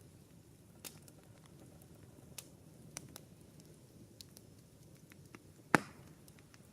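Wood campfire crackling: scattered sharp pops and snaps over a low, steady hiss, with one loud pop near the end.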